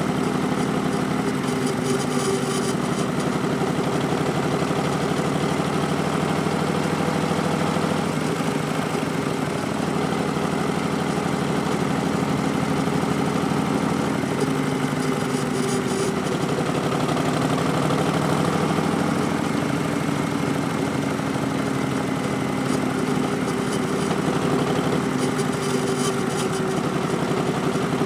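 Harley-Davidson 2019 Street Bob's Milwaukee-Eight 107 V-twin running through Vance & Hines Twin Slash slip-on mufflers, a steady low engine note whose pitch sags and shifts a couple of times.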